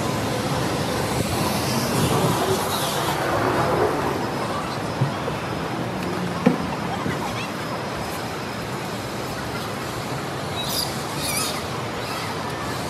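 Hard-shell suitcase wheels rolling steadily over a tiled floor, under the chatter of a busy terminal hall. Two short sharp knocks come about five and six and a half seconds in.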